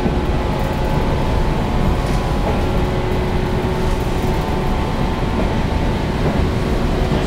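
Running noise inside the carriage of a resistance-controlled electric local train, believed to be a JNR-type 413 series, at speed: a heavy, steady rumble of wheels on rail with a steady motor hum.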